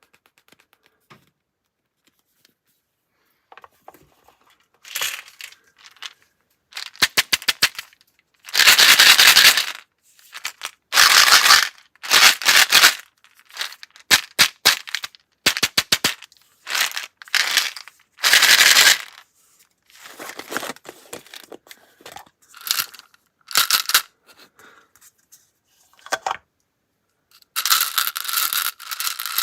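Quick, scratchy strokes of a drawing tool scribbling on paper, coming in irregular bursts of about half a second to a second each after a quiet first few seconds.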